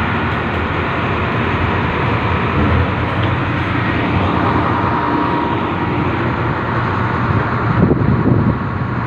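Train running along the track: a loud, steady mix of engine and wheel-on-rail noise, swelling briefly about eight seconds in.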